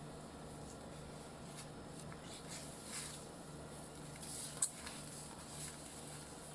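Soft, intermittent rustling of shredded kunafa (kataifi) pastry strands being pulled apart by hand, with one sharp click about two-thirds of the way through. A low steady hum runs underneath.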